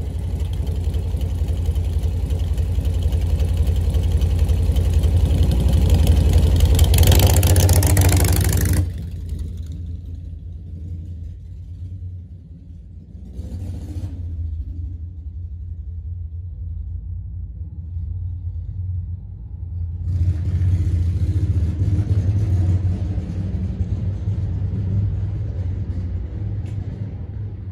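1940 Harley-Davidson UL's flathead V-twin running and revving loudly. About nine seconds in the sound drops off sharply as the bike moves away, then grows louder again from about twenty seconds in as it comes back near.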